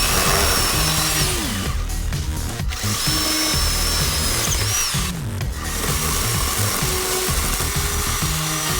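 A chainsaw cutting branches, with background music playing over it. The sound drops out briefly about two and a half and five seconds in.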